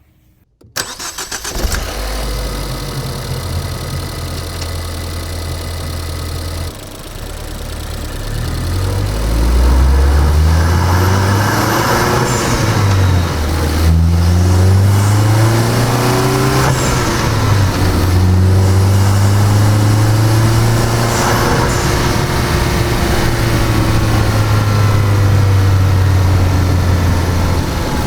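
2013 Ford Focus ST's 2.0-litre EcoBoost turbocharged four-cylinder, heard from a microphone in the engine bay with the stock OEM air filter fitted. The engine starts cold about a second in and idles. From about ten seconds it is revved up and down several times, then holds a steady, higher speed with a couple of light blips.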